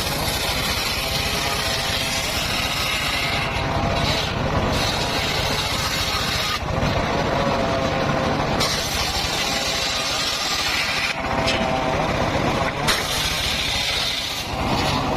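Circular saw running and cutting wood, a steady low running noise with a sharper high sound that comes and goes every few seconds as the blade works through the timber.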